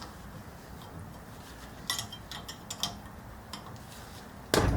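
Hand tools working on a coilover during a spring preload adjustment: a few light metallic clicks and ticks about two and three seconds in, then a sudden loud clatter near the end.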